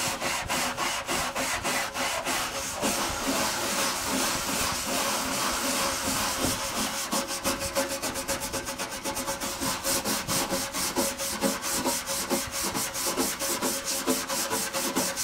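Rapid back-and-forth scrubbing strokes on the dirty casing of a 1991 Packard Bell Legend 386X computer, cleaning off grime. The strokes run evenly and quicken in the second half.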